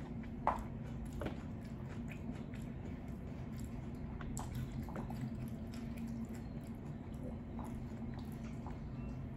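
Close chewing and biting on crunchy hard-shell beef tacos: scattered small crunches and wet mouth sounds, with one sharper click about half a second in, over a steady low hum.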